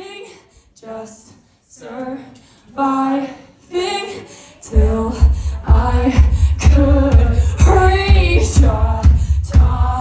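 Live band performance: a lead vocal sings short phrases over a sparse backing, then about five seconds in the full band comes in with heavy bass and drums under the singing.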